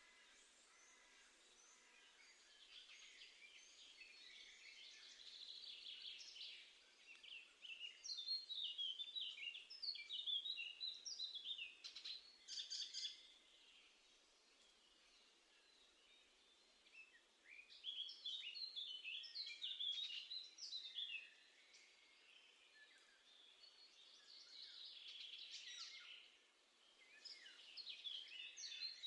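Small garden songbirds singing and chirping in bursts of rapid high notes, several phrases a few seconds long with quieter gaps between, over faint outdoor hiss.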